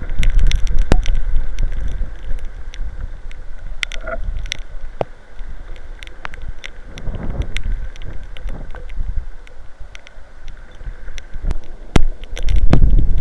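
Strong gusty wind buffeting the microphone in a heavy rainstorm, with many sharp ticks of rain striking it. The gusts ease off in the middle and surge again near the end.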